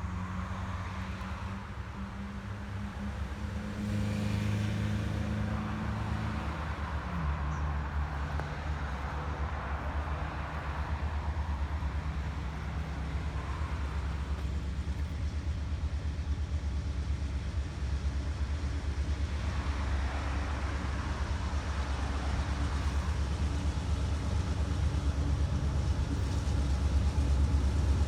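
A low, steady engine rumble, getting louder near the end.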